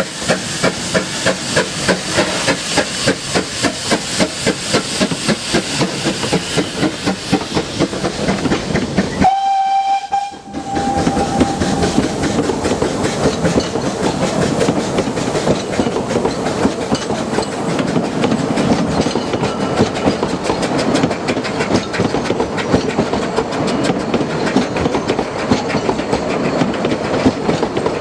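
Narrow-gauge steam locomotive working hard, its exhaust beating fast and evenly. About nine seconds in the sound breaks off briefly and the engine gives a short whistle. Then the beats and running noise carry on.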